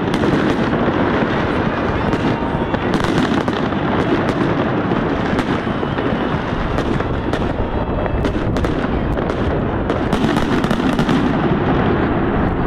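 Fireworks display: many sharp bangs in quick succession from shells and rising comets, over a continuous crackle.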